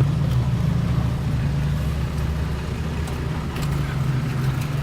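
Car engine running at low speed, a steady low drone heard from inside the car.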